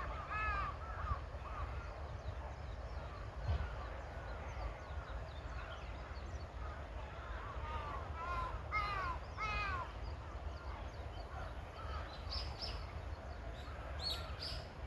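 Crows cawing in runs of several harsh calls, one run at the start and another of about five calls around eight to ten seconds in, with a few higher, shorter bird chirps near the end. A steady low rumble sits underneath.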